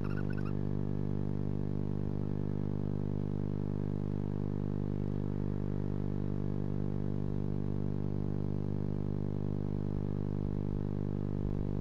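Steady electrical hum from the nest-box recording setup, with no change in pitch. About half a second in, a brief chittering call from a barn owl ends.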